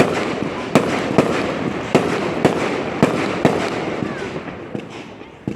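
Fireworks going off: a run of sharp bangs, about two a second, over a continuous rumble of further explosions. The rumble fades away near the end, then fresh bangs start.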